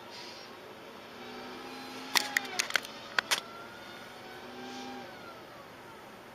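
Road vehicles with a quick run of six or seven sharp bangs and knocks a little over two seconds in, and a steady pitched tone sounding twice.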